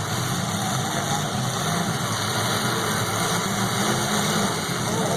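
Engines of several full-size demolition derby cars running together in a steady, dense rumble, with no single crash standing out.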